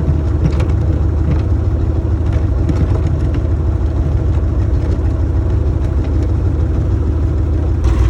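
60-year-old diesel tractor engine running steadily at low speed, with scattered light clicks and knocks over it.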